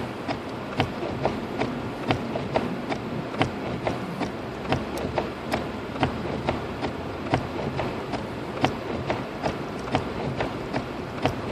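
Hazard-light flasher of a 2006 Lexus IS250 ticking steadily, about two to three ticks a second, over the car's engine and tyre noise heard from inside the cabin.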